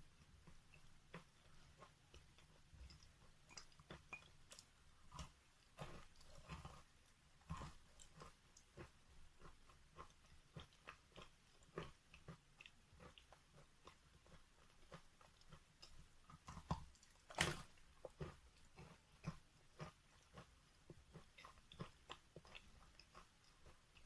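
Wet natural chalk being bitten and chewed close to the microphone: a steady run of small, irregular crunches, with one louder crunch about 17 seconds in.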